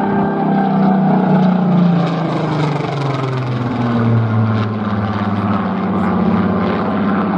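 Rolls-Royce Griffon V12 engine of a Supermarine Spitfire PR Mk XIX running at display power on a low pass. Its note drops in pitch as it goes by, over the first few seconds, and settles on a steadier, higher drone near the end.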